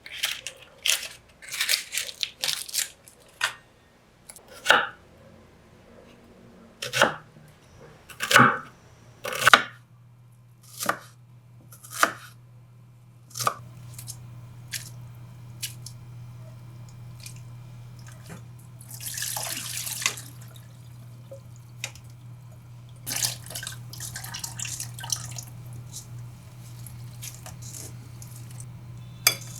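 Kitchen food-preparation sounds: a series of separate sharp knocks and clicks. A steady low hum comes in about ten seconds in, and later there is a short rush of noise and some lighter clinks.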